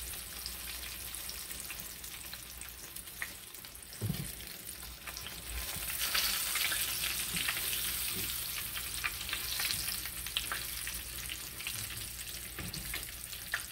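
Breaded fish fillets sizzling and crackling in shallow oil in a frying pan, louder from about six seconds in as a fillet is turned. A few short knocks and clicks from the metal tongs handling the fillets.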